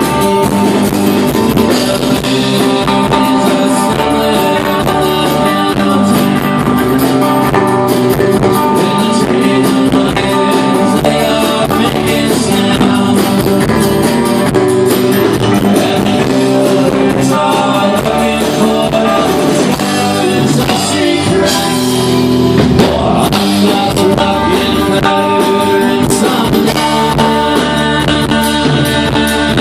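Live band music: a guitar-led instrumental stretch of a rock song, played loud and steady, with some sliding notes a little past the middle.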